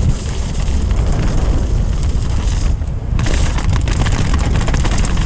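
Mountain bike riding downhill over rough trail: a heavy, constant wind rumble on the microphone, with many short rattling clicks and knocks from the bike, denser in the second half.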